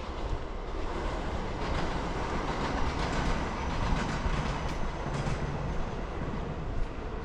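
A train running along the tracks, heard as a steady rolling noise.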